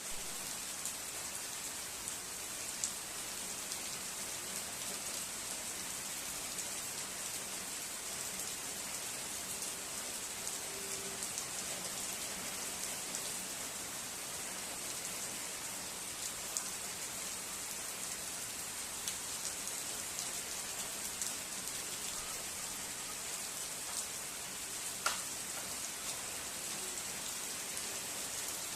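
Steady rain falling: an even hiss with scattered sharper drop ticks, one a little louder near the end.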